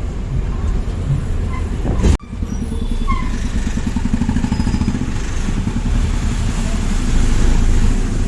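Moving bus: steady low engine drone with road rumble, heard from on board. The sound cuts out sharply for an instant about two seconds in, then carries on.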